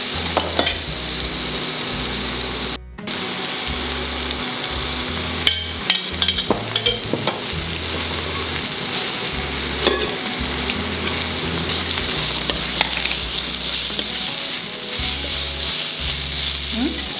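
Onions and ginger-garlic paste sizzling steadily as they fry in ghee, with a spoon scraping and knocking against the pan now and then as they are stirred. The sound cuts out briefly about three seconds in.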